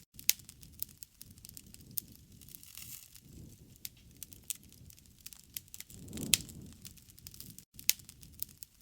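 Wood campfire crackling, with scattered sharp pops of burning wood at irregular intervals. A low rushing sound swells twice, about three and a half and six seconds in.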